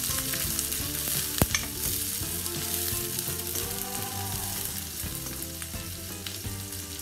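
Sliced onion, green chilli and garlic sizzling in hot oil in a wok while a wooden spatula stirs and scrapes them, with one sharp knock of the spatula about one and a half seconds in. The aromatics are being sautéed until golden.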